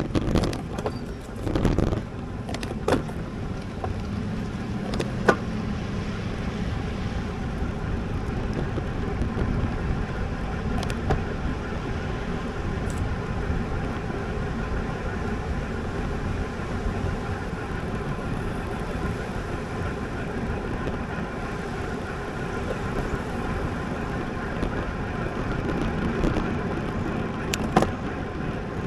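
Steady road noise from a road bike ride, tyres and wind on the camera microphone, with a few sharp clicks in the first six seconds and another near the end.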